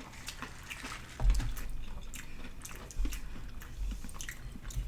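Close-up eating sounds: biting and chewing a fried chicken and donut sandwich, with wet crackles and small clicks of the mouth. Two low thumps come about a second in and again about three seconds in.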